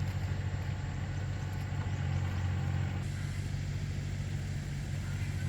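Two-wheel tractor's engine running steadily with an even low drone.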